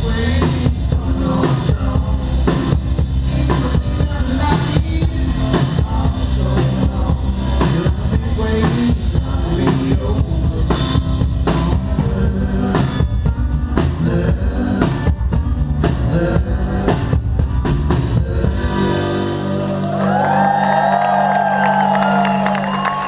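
Live rock band playing with drum kit, guitar and singing; about 19 seconds in the drums stop and the band holds a final ringing chord.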